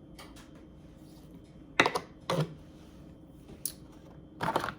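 Kitchen knife knocking and scraping on a cutting board as cut tomatoes are pushed off it: a few sharp knocks about two seconds in, a light tick, then a short scrape near the end.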